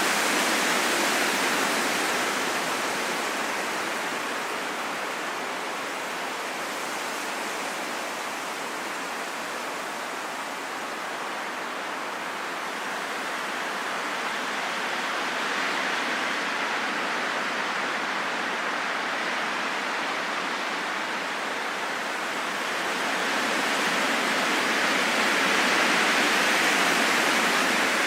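Strong wind blowing, a continuous rushing that swells and eases in slow waves: easing a little in the middle and swelling again near the end.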